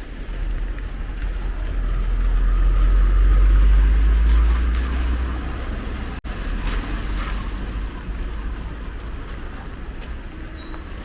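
A vehicle passing on a wet street: a low rumble with tyre hiss that swells to a peak a few seconds in and then fades into the steady traffic noise.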